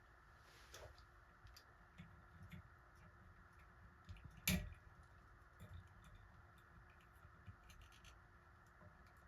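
Faint, scattered clicks and scratches of small parts and tools being handled, with one sharper, louder click about four and a half seconds in.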